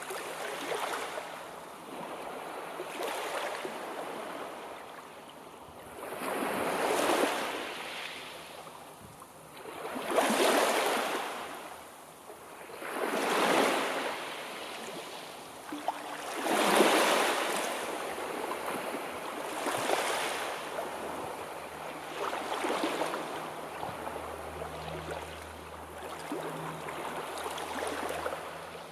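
Sea waves washing in, one surge after another about every three seconds, each swelling and then fading back; the loudest surges come about ten and seventeen seconds in.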